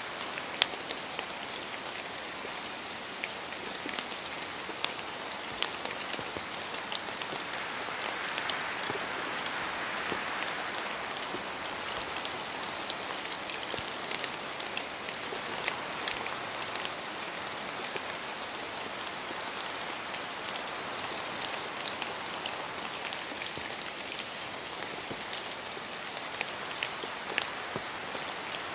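Steady rain falling in a forest, a continuous hiss with many sharp individual drop ticks, swelling slightly for a few seconds about a third of the way in.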